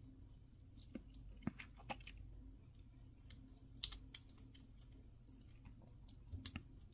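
Faint, scattered clicks and taps of small plastic model-kit parts being handled and pressed together, a few louder clicks standing out among them.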